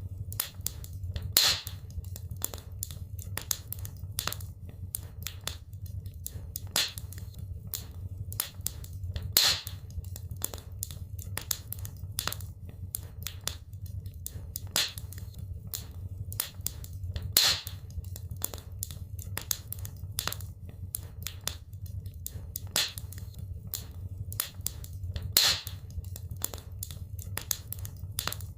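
Wood fire in a fireplace crackling: rapid irregular snaps and pops over a low steady rumble, with a louder pop about every eight seconds.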